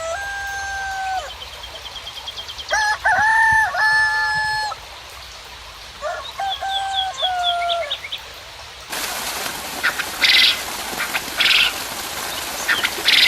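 Roosters crowing: three long crows in the first eight seconds, with small birds chirping high and quick. From about nine seconds a steady hiss of rain sets in suddenly, with brief high bird calls through it.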